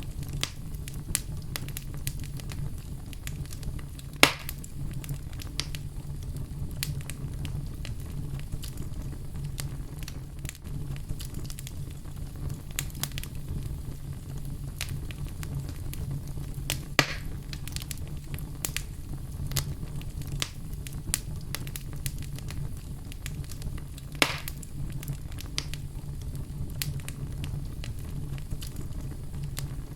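Wood fire burning in a fireplace: a steady low rumble of flames with frequent small crackles, and three louder pops, about four seconds in, near the middle and about two-thirds of the way through.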